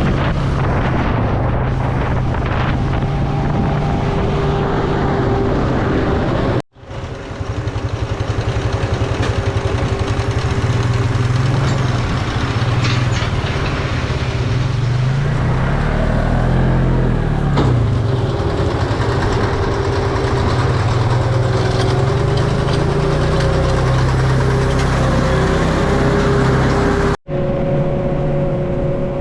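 Farm tractor engine running steadily under load while baling straw, with a brief wavering of pitch about halfway through. The sound cuts out sharply twice, once about a quarter of the way in and once near the end.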